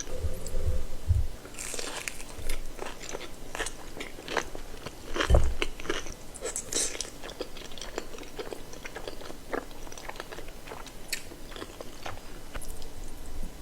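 Close-miked eating: crunchy bites and chewing of crispy fried chicken, a run of sharp crackles, with a few low thumps near the start and about five seconds in.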